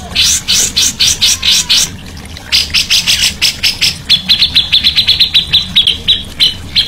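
A songbird singing a loud series of sharp, high chirps, a few a second, which speed up past the middle into a fast run of evenly repeated notes.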